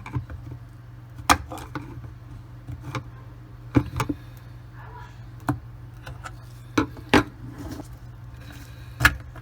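Scattered sharp plastic clicks and knocks as the white plastic cover over the drain pump impeller in a Bosch dishwasher's sump is worked loose and taken off, over a low steady hum.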